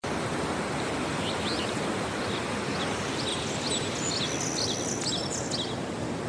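Birds chirping over a steady outdoor background hiss, with a flurry of short calls in the middle.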